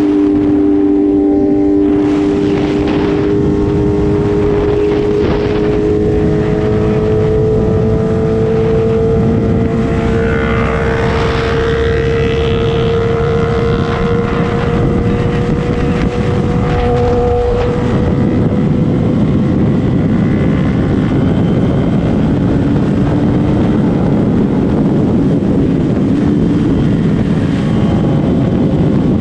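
Sport motorcycle engine held at high revs under way, its steady high note climbing slowly as speed builds. About seventeen seconds in, the note drops away into a rougher, noisier rush.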